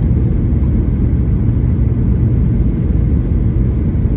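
Steady low rumble of an airliner in flight, engine and airflow noise heard inside the passenger cabin.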